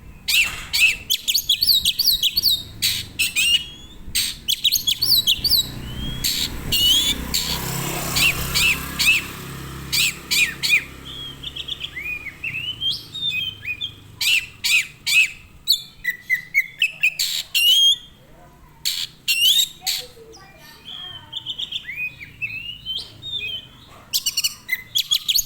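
Small songbird chirping and trilling in rapid, dense runs of sharp high notes, with a quieter, sparser stretch past the middle. A rushing noise with a low hum swells under the song about six seconds in and fades about four seconds later.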